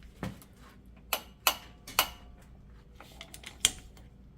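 Ratchet wrench clicking in short spaced runs as a 13 mm brake caliper bolt is worked loose.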